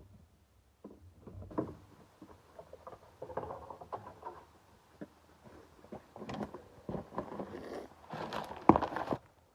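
Irregular knocks, clicks and rustling, with a louder knock near the end; no chainsaw running.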